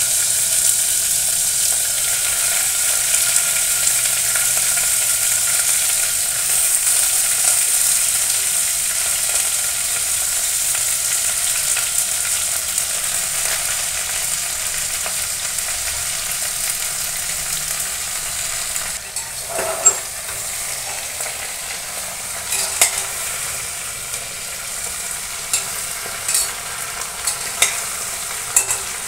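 Bottle gourd pieces sizzling in hot oil in a stainless steel pot, a steady hiss that eases somewhat after the middle. In the last several seconds a metal spatula scrapes and taps against the pot as the pieces are stirred.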